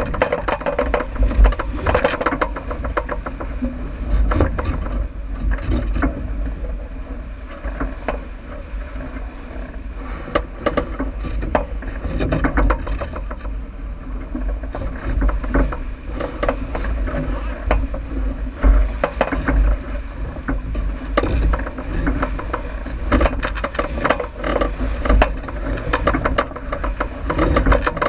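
Aboard a J80 sailboat running downwind: a steady low rumble of wind and water, with frequent clicks, knocks and rattles from the boat throughout.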